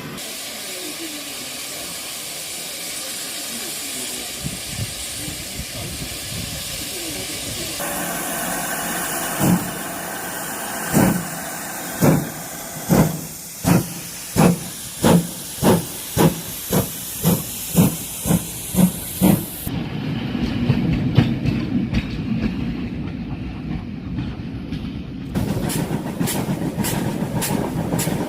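Steam locomotive sounds: a steady hiss of steam at first, then a dozen or so exhaust chuffs, slowly quickening as the engine gets under way. After that comes a steady running rumble, and near the end regular clicking of wheels over rail joints.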